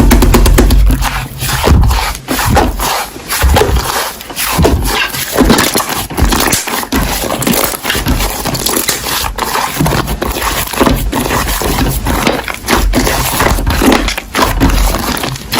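Slime being squeezed and stretched by hand, a steady run of wet, sticky crackles, pops and squelches.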